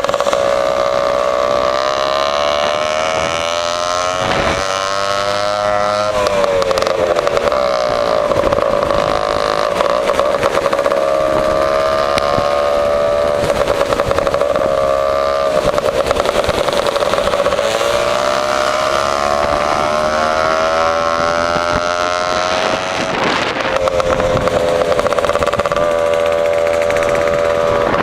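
Two-stroke Lambretta scooter engine running through an AF reverse cone exhaust while riding. The exhaust note rises and falls with the throttle and drops sharply in pitch a couple of times, about four seconds in and again near the end.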